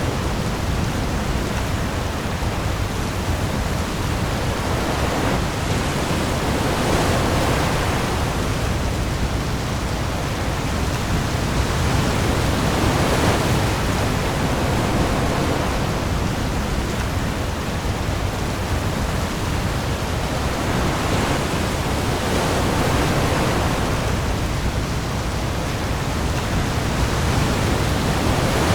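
Heavy rain hissing steadily onto the open sea, with waves swelling and easing every several seconds and a deep low rumble underneath.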